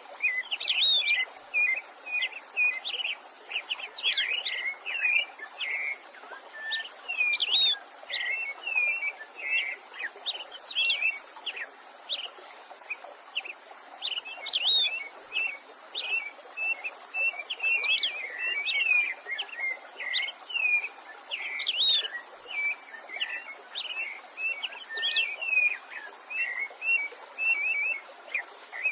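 Songbirds singing without pause: a dense run of quick chirps and whistles, over a steady rushing of a stream.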